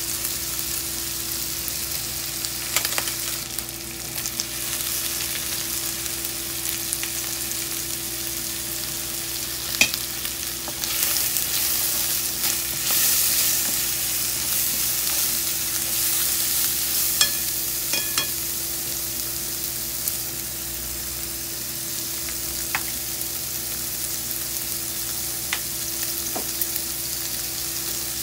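Sliced pork, shimeji mushrooms and carrot sticks sizzling in a coated frying pan as they are stir-fried, with chopsticks clicking against the pan now and then. The sizzle grows louder about halfway through, over a steady low hum.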